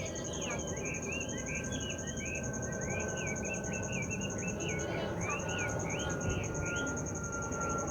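An insect's steady, high-pitched pulsing trill that breaks off briefly about five seconds in, with a bird chirping in quick repeated notes over it and a steady low noise beneath.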